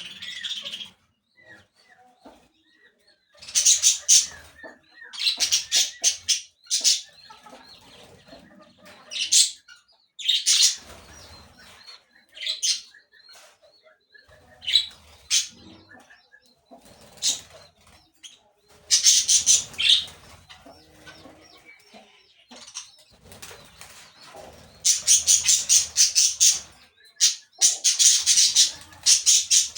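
Parakeets chattering and squawking in repeated high-pitched bursts of rapid notes, a second or two long, with quieter gaps between them. The bursts come thicker and longer near the end.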